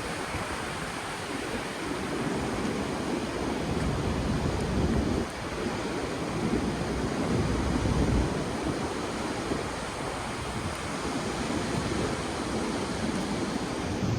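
Ocean surf washing in steadily, with wind buffeting the microphone in gusts.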